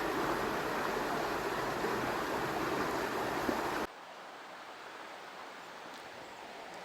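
Steady rushing noise of flowing river water that cuts off suddenly about four seconds in, leaving a much quieter steady hiss.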